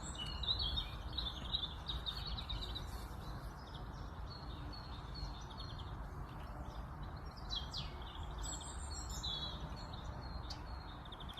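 Songbirds chirping and trilling throughout, over a steady low rumble of outdoor background noise.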